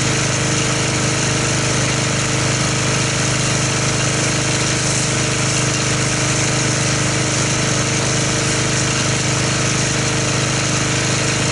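Pressure washer running steadily with the hiss of spray as it feeds a foam cannon, then cutting off suddenly near the end.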